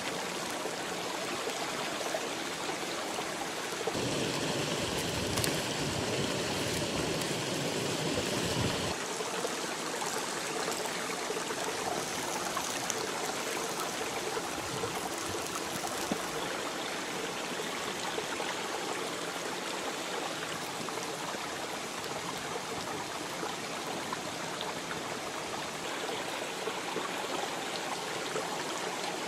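Steady rushing of a nearby stream, an even wash of flowing water. About four seconds in it grows louder, with an added low rumble that stops suddenly about five seconds later.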